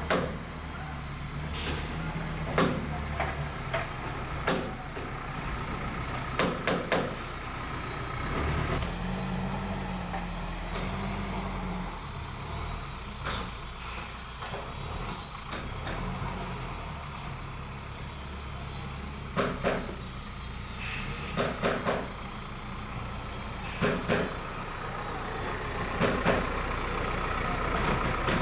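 ACE AX124 backhoe loader's diesel engine running steadily while digging, with repeated sharp clanks and knocks from the bucket and arm, some in quick clusters of two or three.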